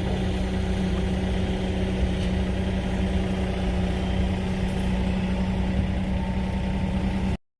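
Engine of heavy digging equipment running steadily with a low hum, cutting off abruptly shortly before the end.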